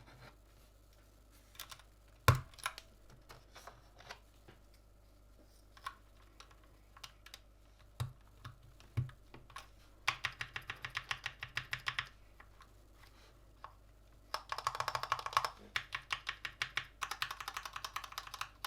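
Gamakay LK67 mechanical keyboard with Gateron red linear switches being typed on: scattered single keystrokes at first, then three quick bursts of fast typing starting about ten, fourteen and seventeen seconds in.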